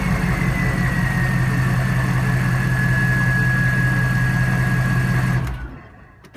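2001 Hummer H1's turbo-diesel V8 through a custom exhaust, idling after a rev. A high whistle falls in pitch and then holds steady. The engine is shut off about five and a half seconds in, and a single click follows near the end.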